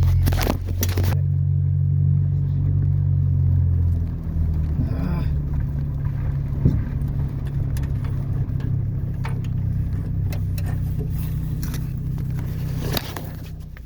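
Ford Ranger pickup's engine running under way, a steady low drone whose note drops and changes about four seconds in, with scattered light rattles and clicks.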